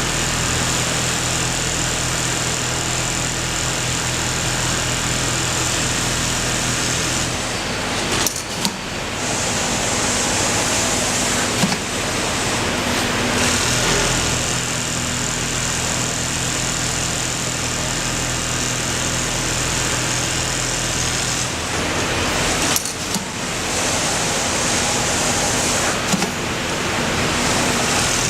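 Computerised pattern sewing machine running steadily as it stitches zigzag quilting, a continuous mechanical hum and whir. It pauses briefly with a few clicks about 8 seconds in and again about 22 seconds in, then runs on.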